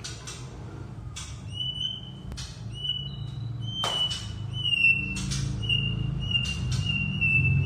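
A bird the keeper calls a "kunti" bird gives a run of long, level, high whistled notes, one after another, with short harsh rasping notes between them. A steady low hum runs underneath.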